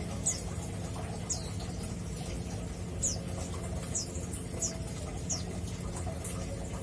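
Caged male mountain white-eye (Zosterops montanus) giving short, high chirps, each a quick falling note, about six of them spaced irregularly over a steady low hum.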